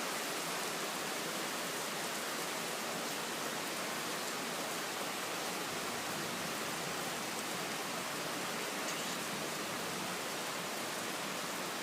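Steady hiss of heavy rain falling, even throughout with no thunder.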